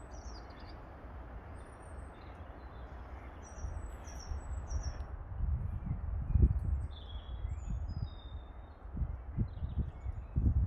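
Small birds chirping, with many brief high chirps scattered throughout. A low rumbling noise comes in bursts from about halfway through and is loudest about six and a half seconds in.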